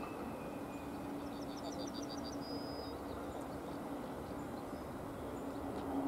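Low steady hum and rumble of an approaching train, growing louder near the end, with a quick run of high bird chirps about a second in.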